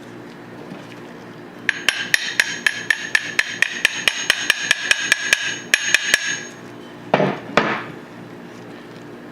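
A metal hammer tapping steel parts of a Tokarev TT-33 pistol, about twenty quick, even strikes at four to five a second, each with a metallic ring. Two duller knocks follow near the end.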